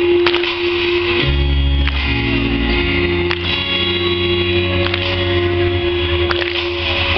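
Live band playing an instrumental passage of a pop song. A long note is held over a bass line that changes note every second or two, with a few sharp hits scattered through it.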